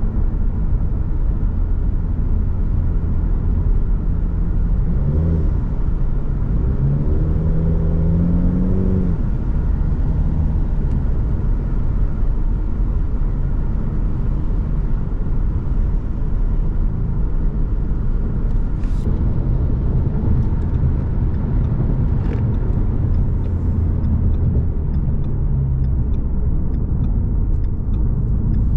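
Car driving at speed with a steady low engine and road rumble; about five seconds in, the engine note rises for a few seconds as it accelerates, then settles back.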